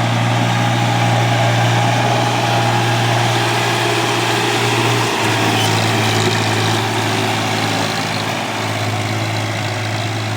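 Tafe 7250 DI tractor's diesel engine running steadily, with a brief dip in its note about five seconds in.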